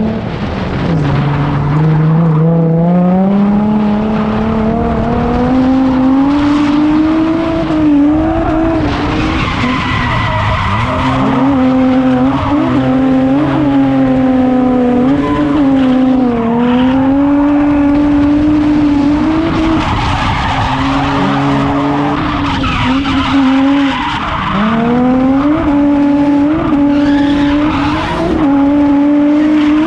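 Drift car engine held at high revs, climbing over the first few seconds and then dipping and recovering again and again, while the tyres skid and squeal through long slides.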